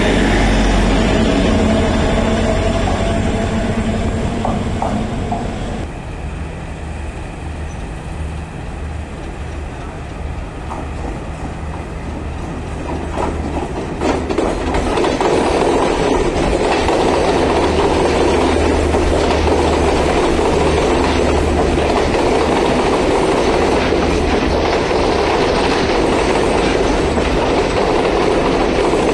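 Sri Lankan diesel multiple-unit passenger trains running along a station platform: a steady low engine drone with wheels clicking over the rail joints. The sound drops back at about six seconds and grows louder and steady from about fourteen seconds in.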